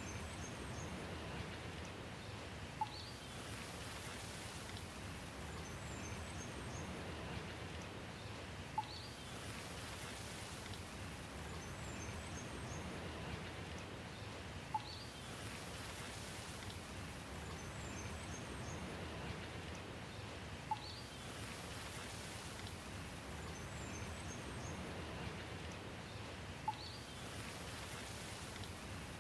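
Steady rain hiss with faint, high bird chirps. The same brief cluster of chirps and a single sharp tick come back about every six seconds, like a short recording played on a loop.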